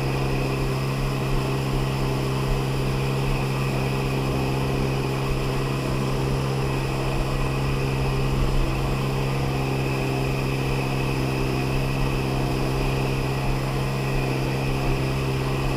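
Sea-Doo XP personal watercraft's two-stroke engine running at a steady speed, one even, unchanging drone.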